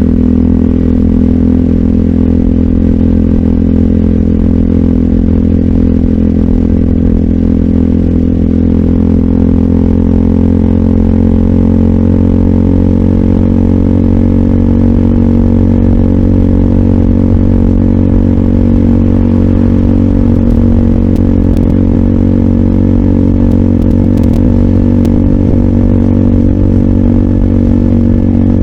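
RUSI Classic 250Fi motorcycle running through an aftermarket full exhaust with a bullet slip-on pipe and dB killer, cruising at steady revs.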